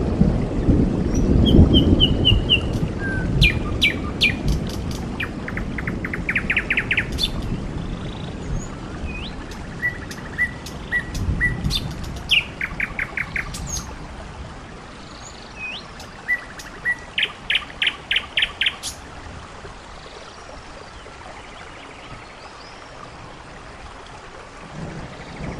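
Birds chirping: short repeated notes and quick trills of evenly spaced notes, with a low rumble under the first few seconds that fades away.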